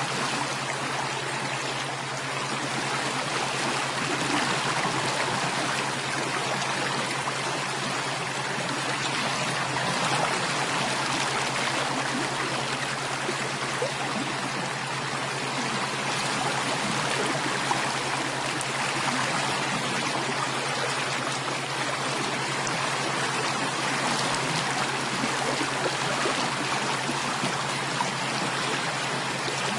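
Flowing stream water, a steady, even rushing and trickling with no change, over a faint steady low hum.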